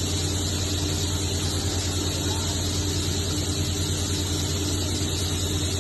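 Table saw fitted with a Yamashin King Tiger blade, running steadily: an even motor hum with a hiss over it.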